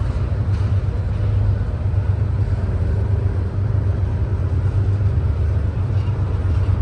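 Freight train rumbling steadily: an even, loud low rumble with no breaks.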